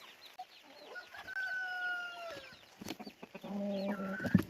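A rooster crows once, a long call that falls slightly in pitch, over faint chick peeping; near the end another chicken gives a lower call.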